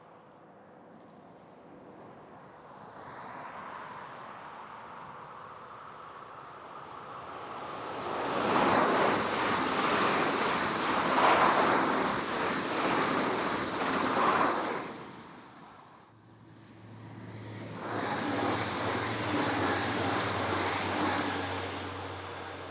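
A train passing on the line: it builds up, goes by loudly for about seven seconds with a rattling rumble, then fades. A second loud passage follows with a steady low hum under it.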